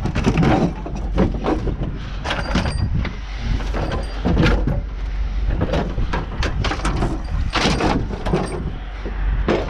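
Clunks and scrapes of a stainless steel dishwasher being handled and hauled, a string of irregular knocks with a steady low rumble underneath.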